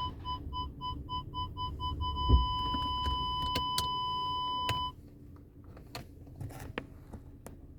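Car parking sensor beeping about four times a second, then switching about two seconds in to one continuous tone, which signals an obstacle very close. A low thump comes just as the solid tone begins, and the tone cuts off suddenly just before the five-second mark, followed by faint clicks.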